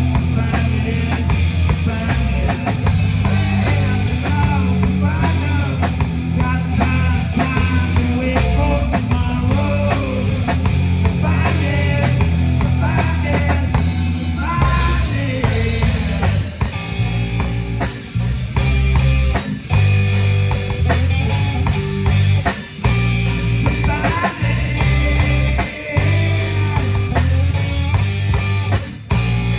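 A live rock band playing: electric guitar, bass and drum kit with a steady beat, and a melody line that bends in pitch over it.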